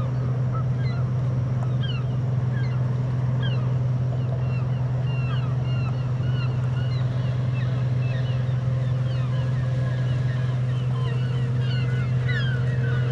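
A steady low hum, with many small birds chirping over it in short calls throughout.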